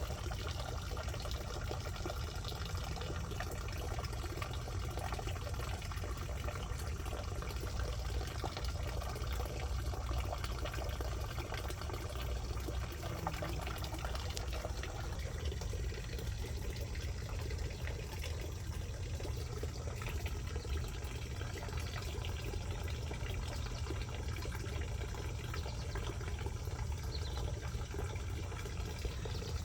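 Steady running water, an even rushing noise without breaks, over a low rumble.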